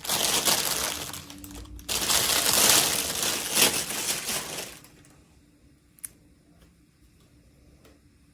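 Plastic packaging crinkling as it is handled, in two loud spells over the first five seconds, followed by a single sharp click about six seconds in.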